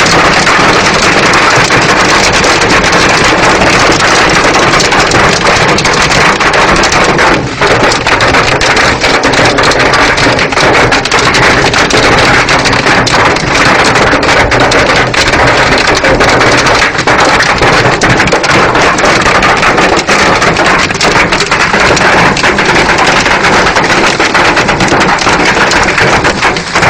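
Heavy rain pouring down: a loud, steady hiss with a dense crackle of drops striking a surface.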